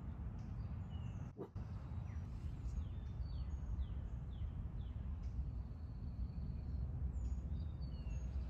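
Songbirds chirping: many short, downward-sliding chirps, with one longer high note near the middle, over a steady low rumble.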